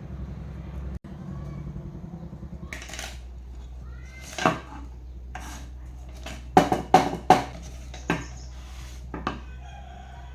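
Metal clinks and knocks, about eight sharp strikes with three loud ones in quick succession around the middle, over a steady low hum. These are typical of metal tools or parts being handled and set down on a work surface.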